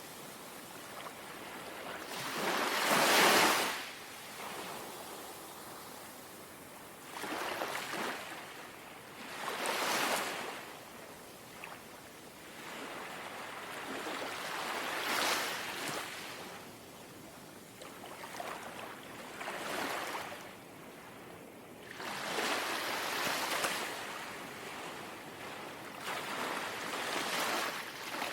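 Small, gentle sea waves washing and lapping on the shore, each wash rising and falling every few seconds, with quieter lulls between.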